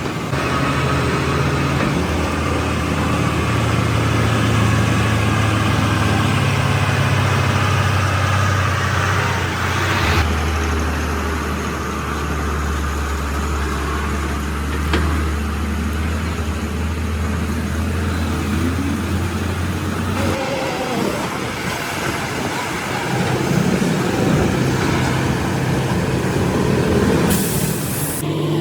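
Heavy truck diesel engines running at low speed, their steady low drone changing abruptly twice as the footage cuts between trucks. A short hiss comes near the end.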